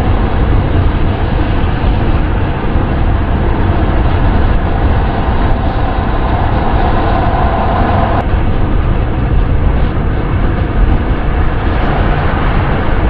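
Steady wind and road noise of a car driving, with a strong low rumble. A mid-pitched drone rises out of it about a third of the way in and cuts off suddenly a few seconds later.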